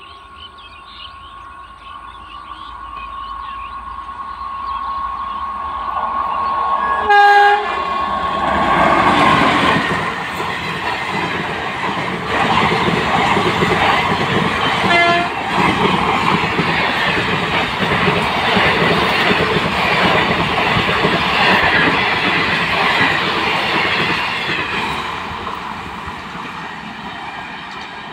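Passenger train passing at speed: a short, loud horn blast about seven seconds in, then a long rushing noise of the coaches' wheels running over the rails, tapering off near the end.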